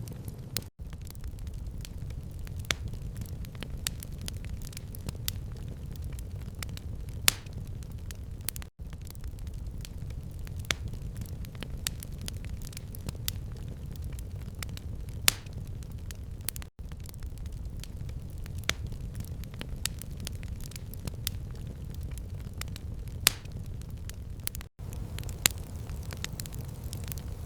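Fire crackling in a stone fireplace: irregular sharp pops and snaps, a few louder, over a steady low rumble of flames. The sound drops out for an instant about every eight seconds.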